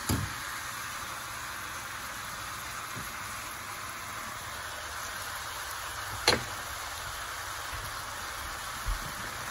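Vegetables and noodles sizzling steadily in a hot nonstick wok as the drained noodles are tipped in from a metal colander. A few knocks break in: one at the start, a sharp one about six seconds in, and a low thump near the end.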